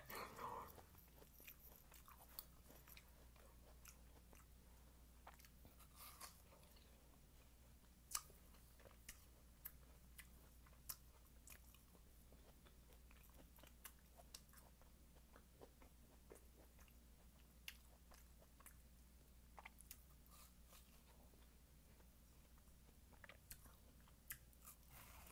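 Faint chewing of juicy watermelon: soft, wet mouth clicks and smacks come irregularly, about one every second or two.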